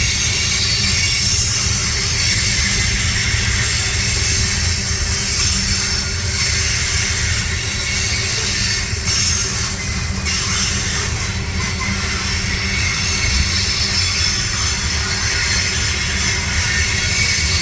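Freight train rolling past, a steady low rumble with a high hiss and a few faint clicks from the wheels on the rails.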